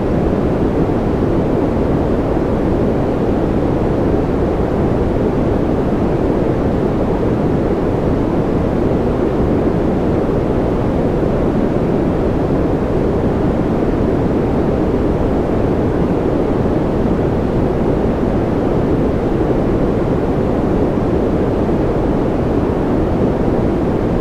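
Steady generated white noise for sleep, even and unchanging throughout, with most of its weight low and deep and little high hiss.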